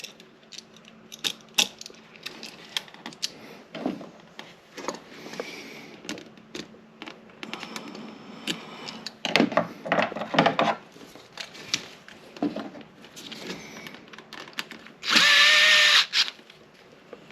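Tools and electrical parts being handled at a switch box: scattered clicks, taps and scrapes, busier in the middle. Near the end a power tool runs in one loud, steady burst of about a second.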